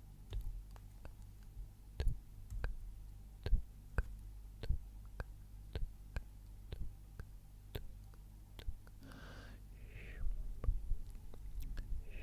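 Close-miked ASMR sounds: soft clicks and taps, about one or two a second at uneven intervals. About nine seconds in comes a breathy, whisper-like sound that lasts a second or so.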